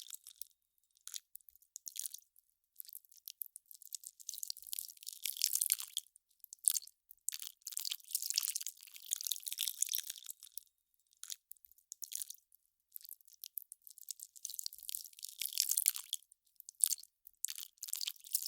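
Melting ice crackling: irregular clusters of fine, high-pitched crackles and pops, with short silent gaps between them.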